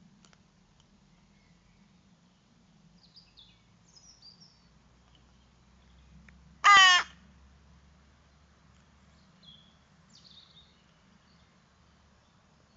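A bird gives a single loud call about halfway through, lasting about half a second, with faint high chirps of small birds a few seconds before and after it.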